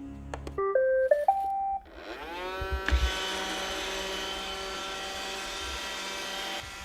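Roomba robot vacuum starting up: a short chime of stepped beeps, then its vacuum motor spins up in a rising whine, with a few low knocks about three seconds in, and runs steadily until it drops off near the end.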